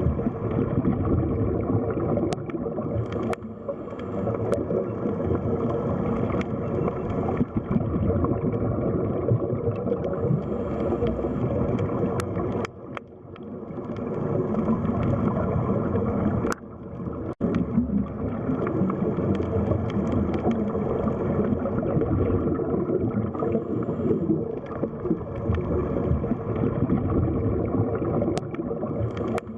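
Underwater sea ambience: a dense, muffled rush and gurgle of water, heaviest in the low end, that drops away briefly twice, with a few faint clicks over it.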